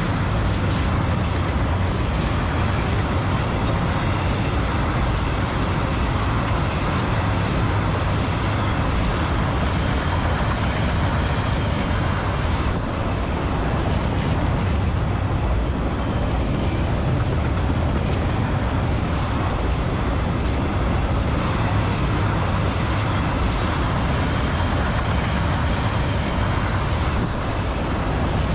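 Long freight train of loaded log wagons rolling along the track: a steady, even rumble.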